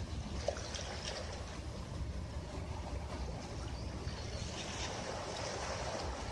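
Sea waves washing onto a beach: a continuous rushing wash over a steady low rumble, with a wave's wash swelling about four seconds in and fading near the end.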